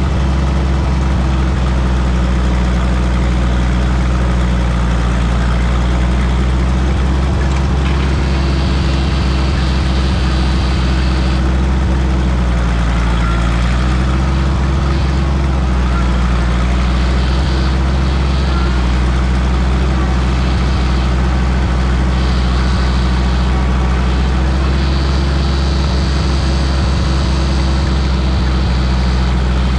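Minneapolis-Moline tractor engine running steadily.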